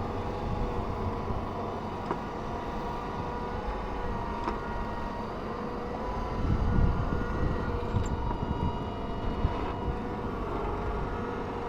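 Ford 7610 tractor's four-cylinder diesel engine running steadily under load while ploughing, with a low rumble that swells louder about six to seven seconds in.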